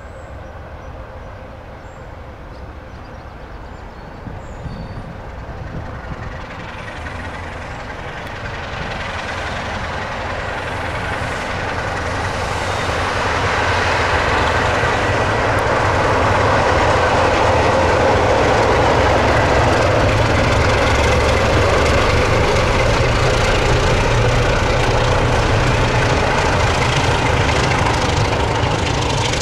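Heritage railway train approaching, growing louder over about fourteen seconds, then running past steadily loud with a deep rumble.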